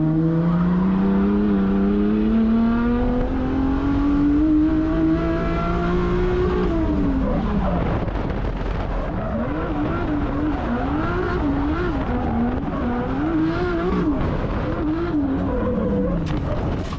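Drift car engine pulling hard up through the revs for about six seconds, then dropping off. From about nine seconds in, the revs rise and fall rapidly again and again, the throttle being worked as the car slides.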